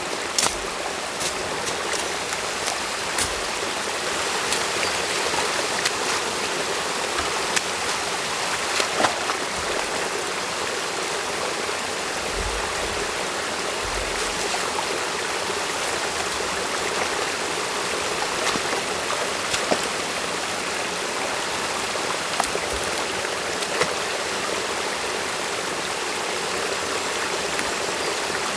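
Stream water running steadily through a beaver dam, with a few sharp clicks and knocks scattered through it.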